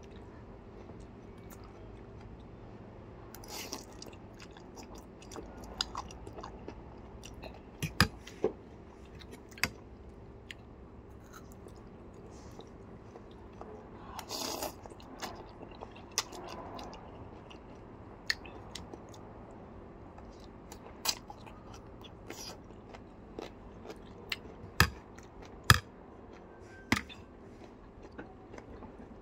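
Close-up eating sounds: chewing noodles and biting a raw red chili, with sharp crunchy clicks scattered irregularly through. About halfway there is a short slurp of noodles.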